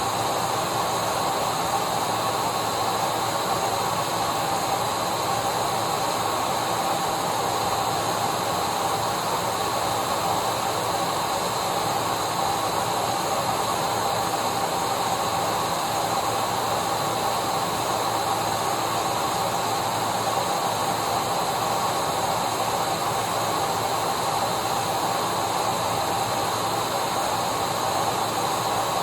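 Vacuum cleaner running steadily, a constant whirring hiss with a steady whine, played continuously as white noise to soothe a colicky baby.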